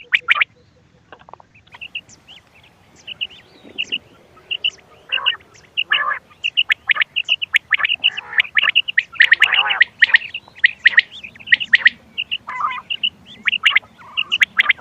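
Quail calling: many short, sharp, high chirps in quick repeated series, sparse at first and then dense and overlapping from about five seconds in, as used to lure quail for hunting.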